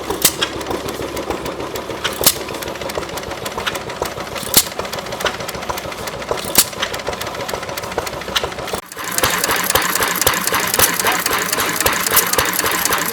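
Antique hit-and-miss gas engines running with a rapid mechanical chatter and a sharp pop about every two seconds. About nine seconds in, the sound changes abruptly to a louder, busier clatter of engines.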